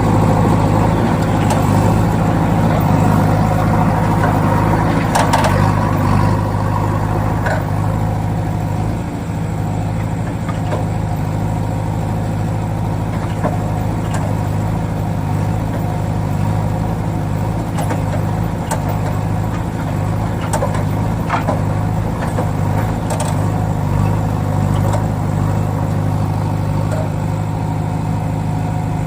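A vehicle engine running steadily at an even, idle-like pitch, with a few faint clicks over it.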